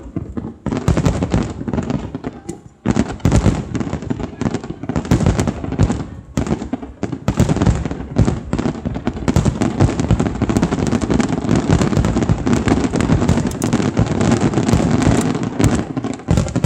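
Fireworks finale: a rapid barrage of shell bursts and crackling, growing denser and near-continuous from about halfway through.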